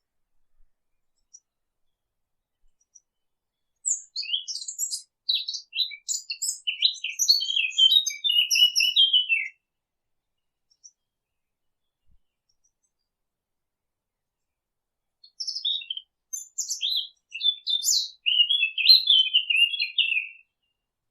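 Sylvia warbler (fig bird) singing: two rapid, warbling song phrases of about five seconds each, the first about four seconds in and the second about fifteen seconds in, each dropping to lower warbled notes at its end.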